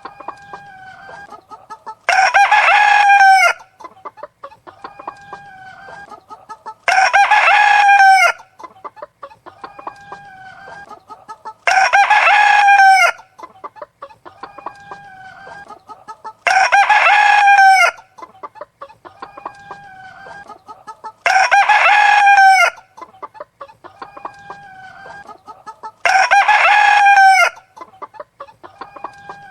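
Chickens: a rooster crows loudly six times at an even spacing of about five seconds, each crow the same, with quieter hen clucking in between.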